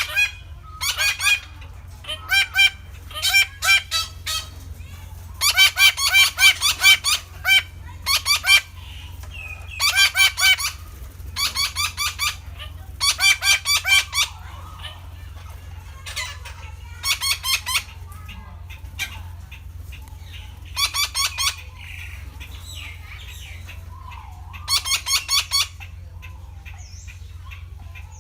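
Red-breasted parakeet calling in repeated bursts of several quick, harsh notes, one burst every second or two, with longer pauses in the second half. A steady low hum runs underneath.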